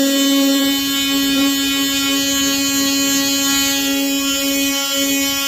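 DeWalt 20V Atomic cordless oscillating multi-tool sanding the edge of a wooden tabletop: a loud, steady buzzing whine with no change in pitch.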